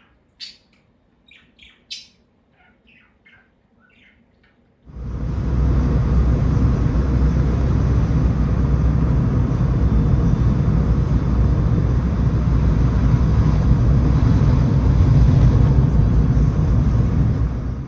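Birds chirping in short calls for about five seconds, then a loud, steady rumbling noise comes in suddenly and runs on until it cuts off abruptly.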